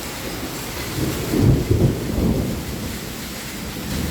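Thunderstorm: heavy rain, mixed with hail, falling steadily, and a low roll of thunder swells about a second in and fades away over the next two seconds.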